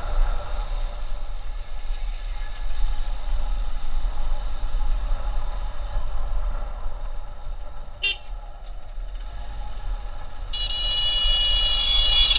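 Steady low rumble of a motorcycle ride on a highway, with wind on the microphone. A vehicle horn gives a short toot about eight seconds in, then sounds one long blast over the last two seconds.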